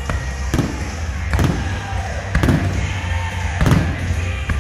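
Aerial fireworks shells bursting in a rapid series of booms, the strongest about once a second, over a steady low rumble.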